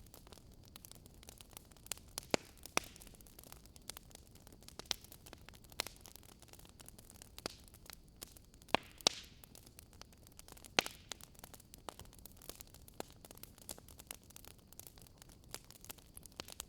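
Wood fire crackling in a fireplace: irregular sharp pops and snaps over a soft steady hiss, with the loudest pops a couple of seconds in and again around nine and eleven seconds in.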